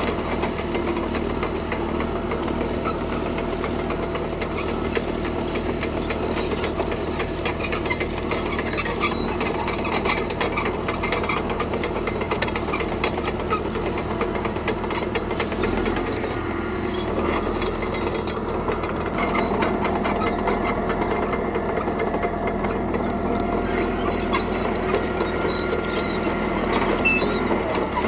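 Caterpillar D3K crawler bulldozer at work: its diesel engine runs steadily, with scattered squealing and clanking from its steel tracks.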